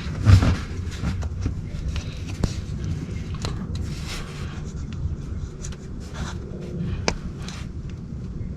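Hand work on an engine: scattered metal clicks, light scrapes and knocks from tools and parts being handled, with a louder thump just after the start, over a steady low hum.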